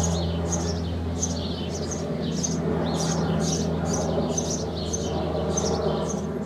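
Sparrows chirping, short high chirps repeating about twice a second, over a steady low hum.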